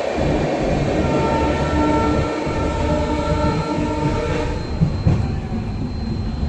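Train running, a continuous rumble with steady tones on top that fade away about four and a half seconds in. Two sharp knocks follow about five seconds in.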